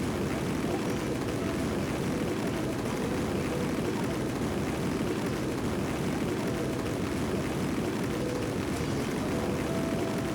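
Steady rushing of a river flowing, an even low-pitched wash of water with no breaks.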